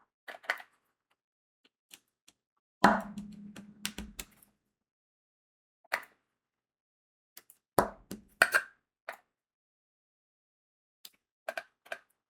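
Crystal diamond-painting beads being pressed onto the sticky canvas with the applicator pen: sharp little clicks and taps in irregular clusters, with a longer knock and rattle about three seconds in.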